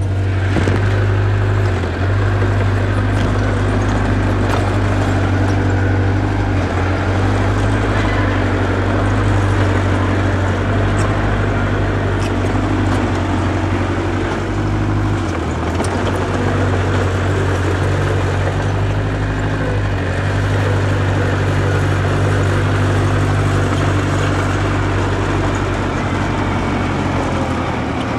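Diesel engine of a small bulldozer running steadily under work, its pitch shifting a little around the middle, with faint clicks and rattles over the engine sound.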